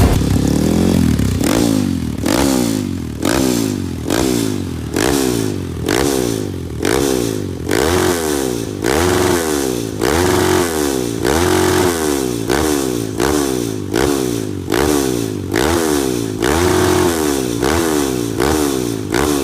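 Small single-cylinder trail-bike engine breathing through an aftermarket exhaust, revved in quick blips over and over, about one rev a second, each a fast rise and fall in pitch.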